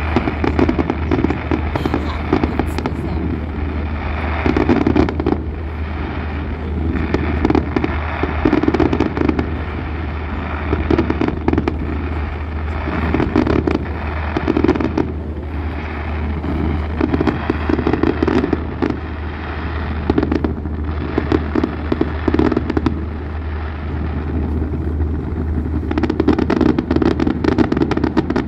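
Fireworks display: dense, continuous crackling and popping from many shells, swelling louder every second or two, over a steady low hum.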